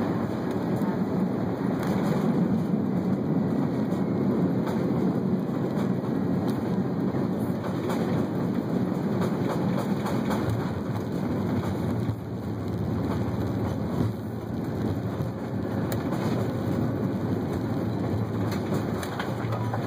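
Airbus A330 cabin noise on arrival: a steady rumble of the jet engines and the aircraft moving, easing a little about twelve seconds in, with a single sharp click a couple of seconds later.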